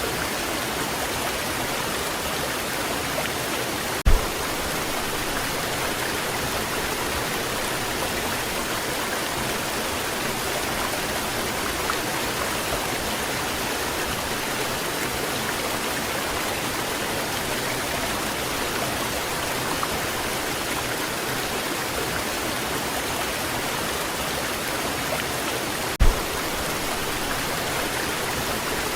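Waterfall pouring in a steady, even rush of falling water. Two brief low thumps, about four seconds in and near the end, rise above it.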